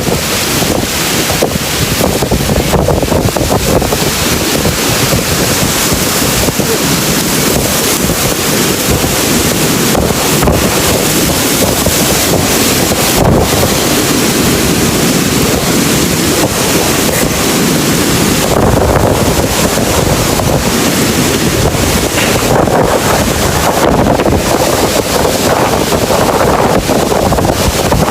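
Strong thunderstorm wind blowing with rain, a loud steady rush with wind buffeting the microphone.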